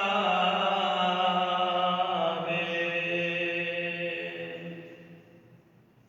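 A man's solo voice chanting Arabic Christian liturgical chant, holding a long drawn-out note that steps to a new pitch about two seconds in, then fades away about five seconds in.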